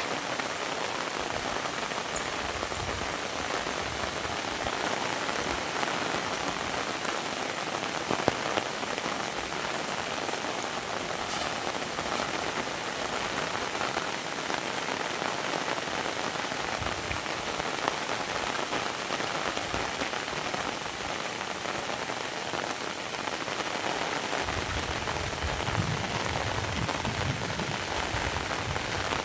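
Heavy rain falling steadily, a dense even hiss with a few sharper single drop hits. A low rumble comes in under the rain near the end.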